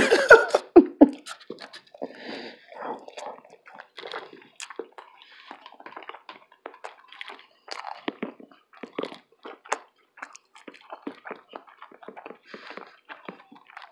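A person chewing a breakfast burrito close to the microphone, with soft, irregular wet smacks and clicks of the mouth.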